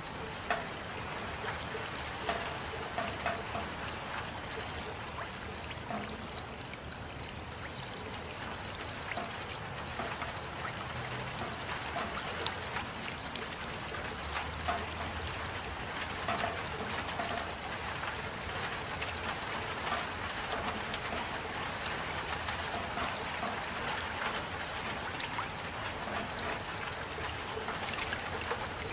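Steady rainfall, a continuous even wash of water sound with many separate drop hits standing out here and there.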